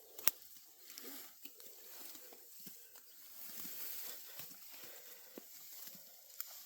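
Rice stalks rustling and snapping as they are harvested: an irregular run of dry rustles and small crackles, with one sharp click just after the start.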